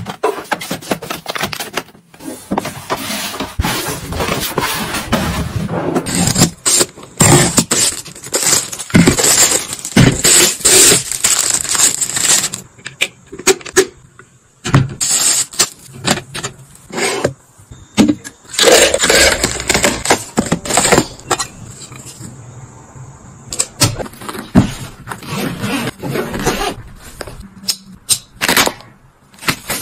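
Close-up handling noises of packing freeze-dried food into storage containers: packets rustling, hard pieces rattling and scraping, and plastic containers and lids knocking and clicking, in irregular flurries with a few short pauses.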